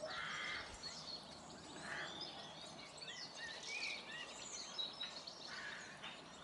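Faint birdsong: scattered short chirps and whistled notes over a low steady background hiss.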